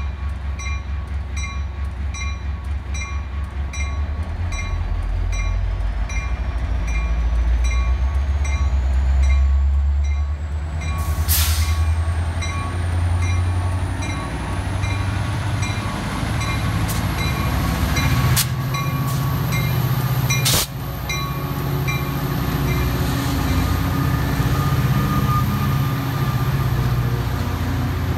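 A train passes with a heavy diesel locomotive rumble, while a bell dings rapidly and steadily, strongest for the first ten seconds. A whine climbs slowly in pitch, and a few sharp clanks sound near the middle.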